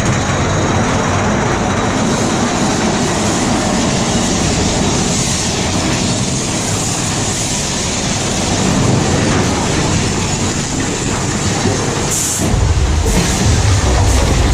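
Mine-train roller coaster cars running along the track: a steady, loud rattle and clatter of the wheels. About twelve seconds in there is a brief high hiss, and after it a deeper, louder rumble.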